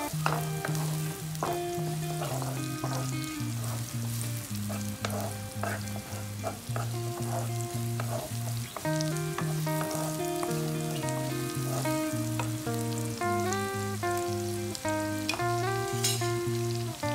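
Shallots, chilli and garlic sizzling in oil in a non-stick wok, stirred with a wooden spatula that scrapes and taps the pan now and then. Background music with a plucked melody and a stepping bass line plays throughout.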